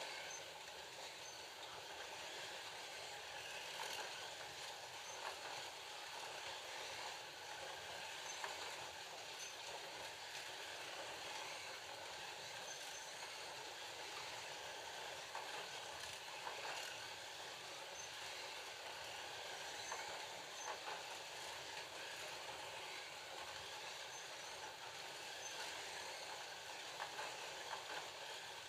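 Several FLY Classic slot cars with 19K motors running laps: a steady whir of small electric motors and gears, with light scattered clicks.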